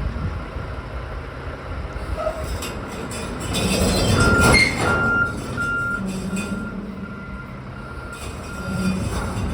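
Roll-off truck's backup alarm beeping in a steady series, about one and a half beeps a second, starting about four seconds in, over the truck's engine running.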